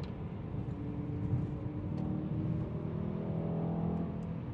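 Car engine accelerating, its pitch climbing steadily for about three seconds over a steady low rumble.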